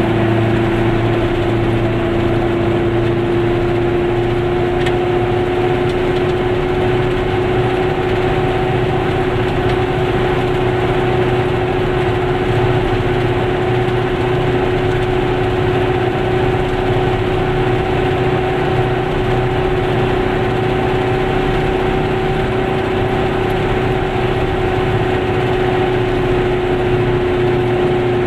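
Goggomobil's small air-cooled two-stroke twin engine running steadily at cruising speed, heard from inside the car as one steady drone whose pitch creeps slightly upward, over even road and tyre noise.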